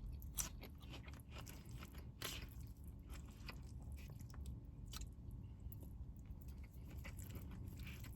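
A person chewing a mouthful of brisket close to the microphone. Faint, irregular wet mouth clicks, with one slightly louder click about half a second in.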